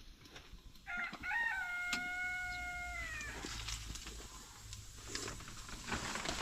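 A rooster crowing once: a single call of about two and a half seconds starting about a second in, with short rising notes leading into a long held note that drops away at the end.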